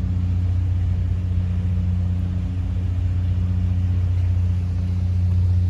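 A steady, low engine drone, loud and unchanging.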